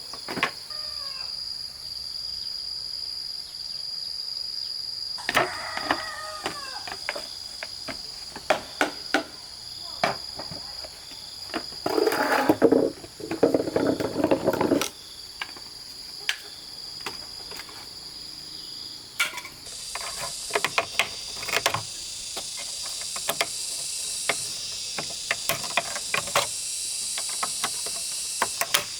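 Steady high chirring of insects, with many scattered sharp knocks and taps. About 12 seconds in, a louder voice or animal call lasts around three seconds, and a shorter gliding call comes about 5 seconds in.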